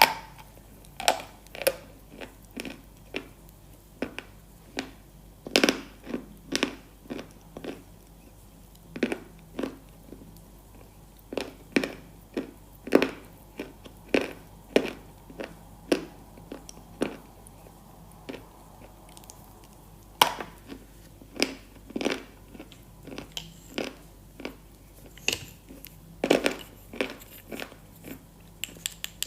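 Close-miked crunching bites and chewing of something hard and brittle, with irregular sharp cracks about one or two a second and short pauses between.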